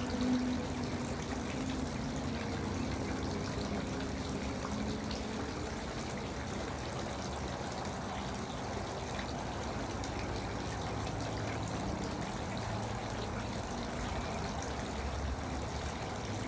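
Garden water fountain with water trickling and splashing steadily.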